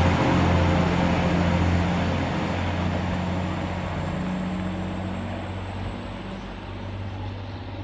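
TransPennine Express train pulling out of the platform, its engines running with a deep steady hum that fades gradually as it draws away.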